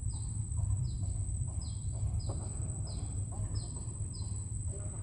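A bird giving a short, high, falling chirp over and over, about every two-thirds of a second, over a steady high-pitched whine and a low rumbling background.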